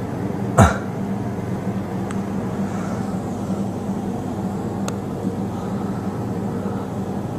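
A steady low mechanical drone, like a motor running, with one sharp knock about half a second in and a couple of faint clicks later.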